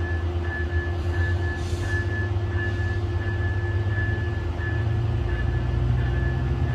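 Approaching passenger train's diesel locomotive running with a deep, steady drone; about three-quarters of the way through, its engine note steps up in pitch and grows louder. A high ringing tone pulses on and off alongside it.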